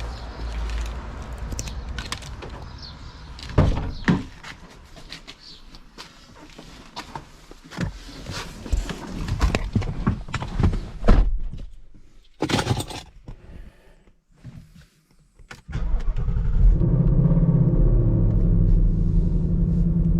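Keys jangling and a few clicks and thunks around a car, then about three-quarters of the way in the Ford Mustang's engine starts from cold and settles into a loud, steady idle.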